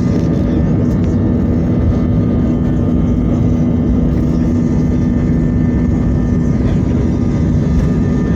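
Airplane engines running loud and steady: a low drone with a higher whine, both held at a constant pitch.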